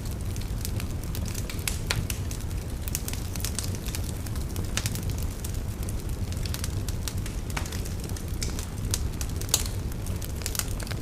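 Wood fire burning in a fireplace: a steady low rumble of the flames with sharp, irregular crackles and pops.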